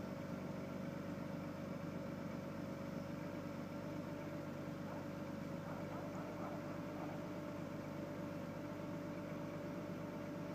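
2001 Ford Taurus's 3.0-litre overhead-valve V6 idling steadily, still warming up a few minutes after a below-freezing cold start.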